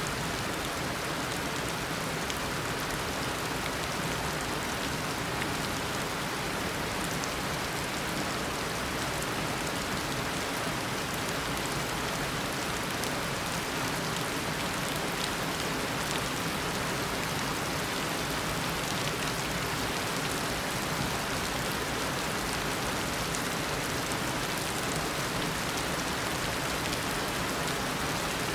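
Steady heavy tropical rain, an even downpour with scattered drops ticking on surfaces.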